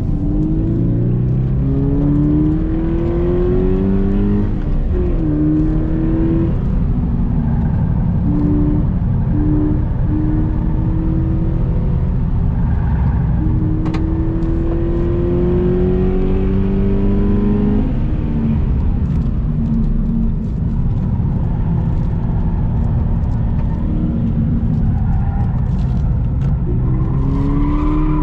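Subaru BRZ's flat-four engine pulling hard under acceleration, its pitch climbing over the first few seconds and again for several seconds mid-way, each climb ending with a drop in pitch at a gear change, over steady road and tyre noise.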